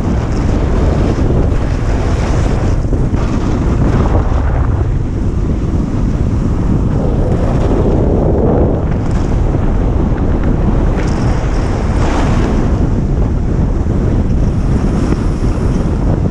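Loud wind rushing and buffeting over a GoPro's microphone during a fast snowboard descent. The noise swells and eases every few seconds as speed and turns change, with the board's slide on the snow mixed in underneath.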